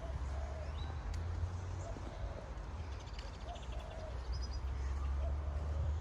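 Outdoor ambience of birds calling: short, repeated calls scattered through, with a quick run of high chirps about halfway. Under them runs a steady low rumble.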